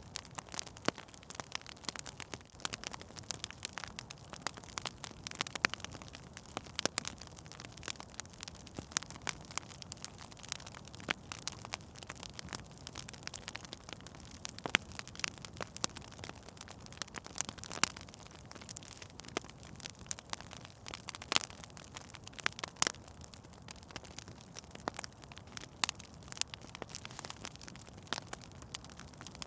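Fire burning in a fireplace, crackling steadily, with irregular sharp pops scattered throughout over a soft hiss.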